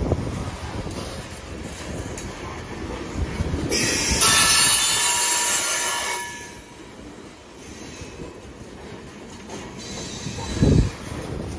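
Coal train's open-top gondola cars rolling past with a steady rumble and clacking of wheels. About four seconds in, the wheels squeal loudly for roughly two seconds. A heavy low thump comes near the end.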